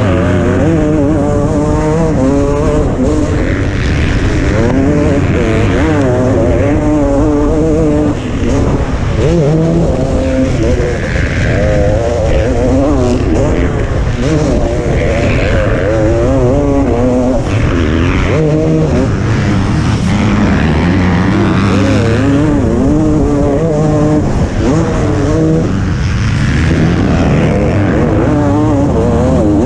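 Motocross bike engine under race load, revving hard and easing off again and again as the rider accelerates down the straights and shuts off for the turns, with a steady low rumble of wind and track noise beneath it.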